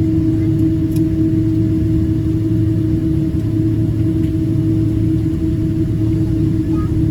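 Steady drone of a Boeing 777-200's jet engines heard inside the passenger cabin, an even rumble with a constant hum.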